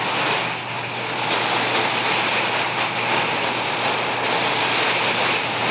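Heavy wind-driven rain pelting the outside of an RV, heard from inside as a steady hiss on the walls and windows.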